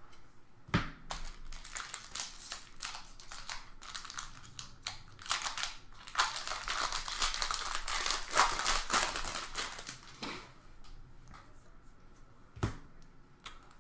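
Trading card packs being opened and handled: wrappers crinkling and tearing and cards clicking and shuffling, densest in the middle, with a sharp knock near the start and another near the end.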